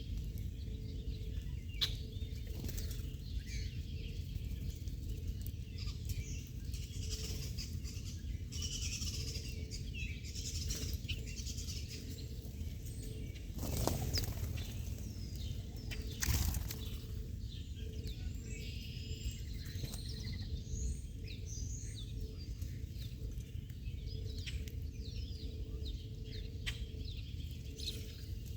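Small birds chirping and twittering over and over against a steady low background rumble, with two brief whooshes about halfway through.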